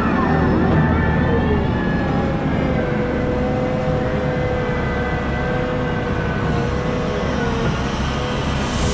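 Heavy diesel machinery running steadily, with whining tones that glide up and down in pitch over a continuous low rumble.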